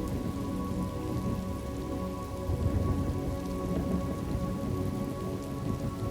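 Steady rain from a thunderstorm ambience, with a low rumble underneath and faint held music tones.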